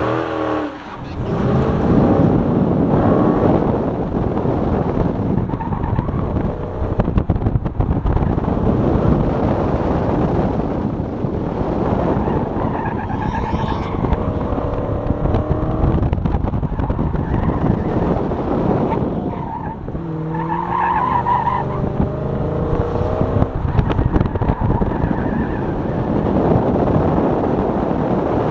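2019 Dodge Challenger Scat Pack's 6.4-litre (392) HEMI V8 working hard through an autocross run, heard from inside the cabin, its pitch rising and falling with throttle. Tyres squeal in the turns, most clearly about 13 seconds in and again from about 20 to 23 seconds.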